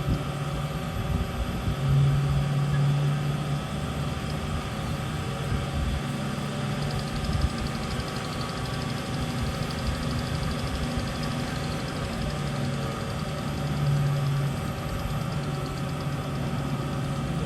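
Mega BS-360SA horizontal band saw running, with a steady mechanical hum of motor and blade drive made up of several constant tones. The hum swells briefly about two seconds in and again near the end.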